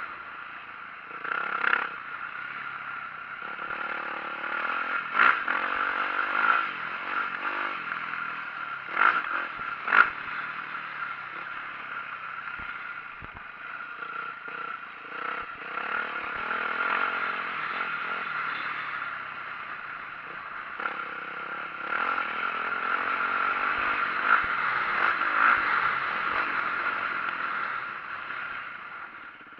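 2004 Yamaha YZ450F four-stroke single-cylinder dirt bike ridden over rough trail, its engine running under a steady rush of noise. Sharp clattering knocks from the bumps come about five, nine and ten seconds in.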